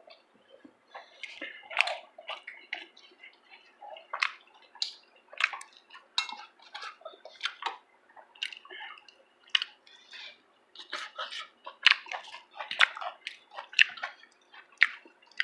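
People eating: irregular small clicks and taps of utensils against dishes, mixed with wet mouth sounds of chewing.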